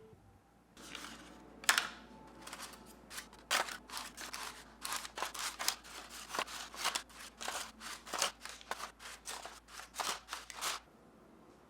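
A utensil stirring ingredients in a mixing bowl: a run of short scraping strokes, about two or three a second, that stops near the end.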